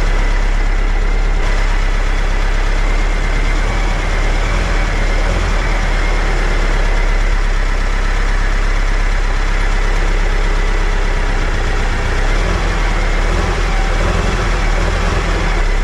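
Air-cooled VW flat-four engine with dual Weber 48 IDA carburettors running steadily at idle, with a faint steady high whine over it, while the two carburettors are still being brought into sync.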